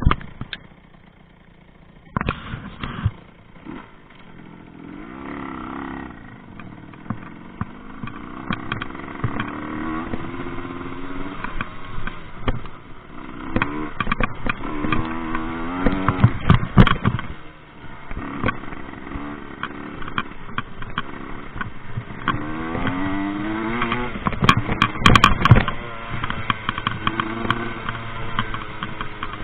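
Rieju MRT 50's small two-stroke engine revving hard and easing off again and again while the bike is ridden off-road, each throttle burst a rising whine. Sharp clattering knocks from the bike throughout. It starts quiet for about two seconds before the engine picks up.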